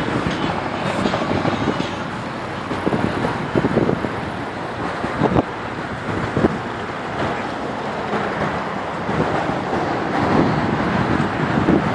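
Street noise of cars running and passing, mixed with wind buffeting the microphone.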